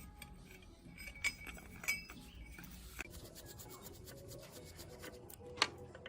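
Light metal clinks and rubbing from hand work on the parts of a metal cutting machine under restoration. A few sharper clinks stand out, and from about halfway there is a run of quick light ticks.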